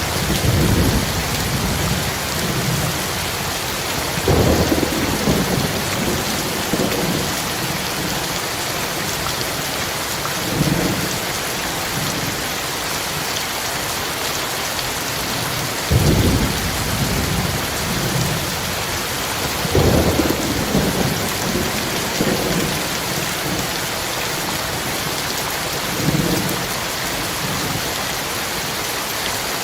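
Heavy rain falling steadily, with thunder rumbling low in about six separate swells, the strongest two near the middle.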